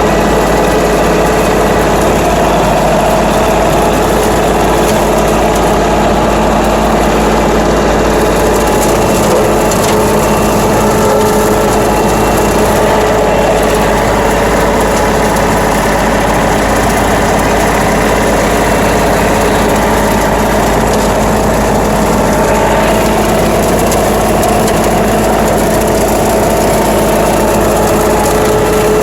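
Tractor engine running steadily at a constant speed, driving a rotary cutter (bush hog) mowing brush.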